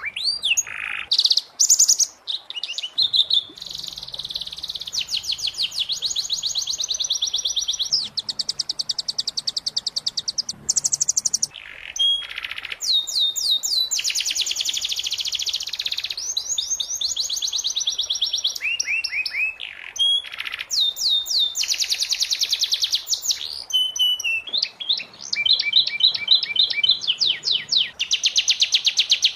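Domestic canary singing a long song of rapid trills: fast runs of repeated high notes and quick sweeps, with short breaks between phrases. This is a masteran, a tutor song played for young canaries to copy.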